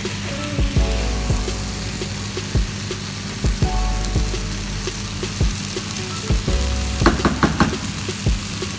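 Halloumi, tomato and herb mixture sizzling in a nonstick frying pan while a wooden spatula stirs it, knocking and scraping against the pan. Near the end comes a quick run of about five knocks.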